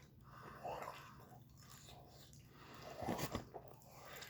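A person chewing a bite of batter-coated fried chicken finger, with faint irregular mouth noises that are loudest about three seconds in.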